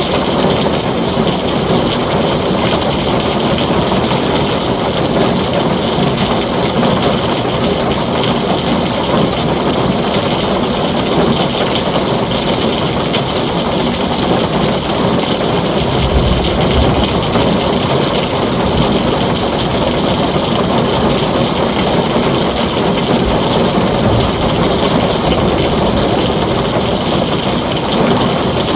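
Heavy rain pouring steadily onto a tin roof, with a low rumble of thunder coming in about halfway through and rolling on until near the end.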